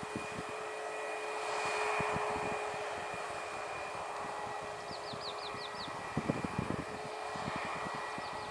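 Steady aircraft engine noise with a humming tone, swelling briefly about a second in, with wind buffeting the microphone. About five seconds in come six quick, high, descending chirps.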